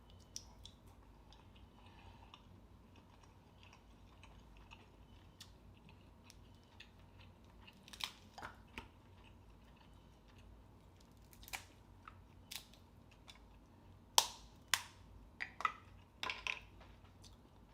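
Close-miked eating of a seafood boil: quiet chewing with sharp cracks and clicks of crab and mussel shells being broken and handled. They come in scattered groups, loudest and most frequent near the end.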